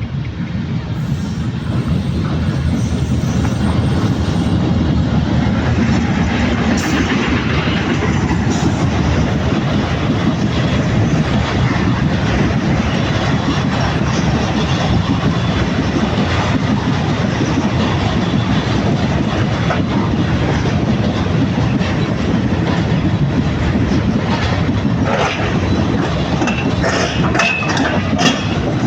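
Goods train passing close by, its wagon wheels clattering steadily over the rail joints. The sound grows over the first couple of seconds, then holds, with sharper clicks and a brief high-pitched squeal near the end.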